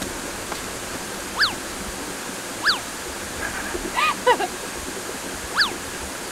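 Steady rushing noise like running water or wind. Over it, a bird gives a short high arching call three times, with a quick run of falling notes about four seconds in.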